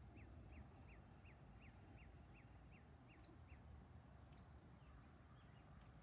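A songbird singing faintly: a run of about ten quick, identical slurred whistles, roughly three a second, that stops about three and a half seconds in, with a few faint chips after. A low steady rumble lies underneath.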